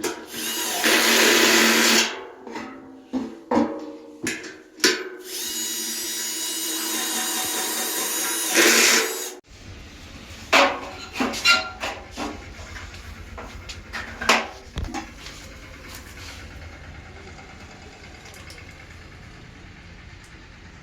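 Power drill driving in the screws that fix a new drum spider to a front-load washing machine's steel drum: a two-second run at the start and a longer steady whine from about five to nine seconds that cuts off sharply, then scattered clicks and knocks of metal parts.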